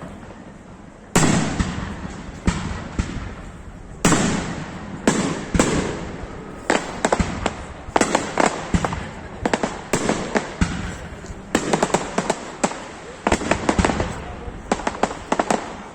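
Fireworks display: aerial shells bursting with sharp bangs and echoing tails. There is a single bang about a second in and another at four seconds, then a quickening run of crackling bursts that grows denser toward the end.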